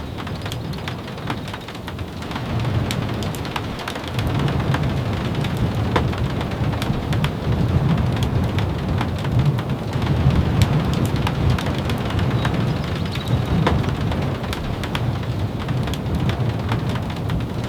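Steady rain with many sharp ticks scattered through it, over a low rolling rumble that builds about two seconds in and grows louder about four seconds in.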